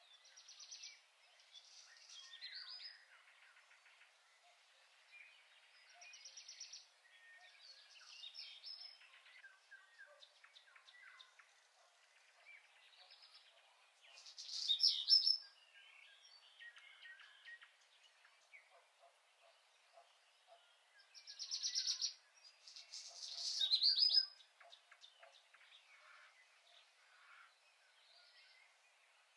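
Small birds chirping and singing in short trills about a second long, with quiet gaps between them; the loudest calls come about halfway through and again about two-thirds of the way in.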